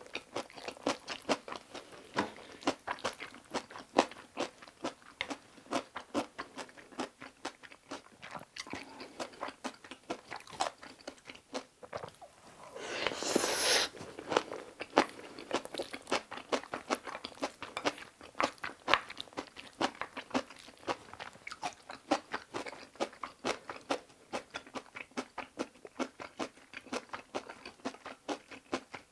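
Close-miked chewing of a mouthful of kimchi cream fried rice: a run of small crunches and mouth clicks, several a second, with a brief louder noise about halfway through as the next spoonful is taken.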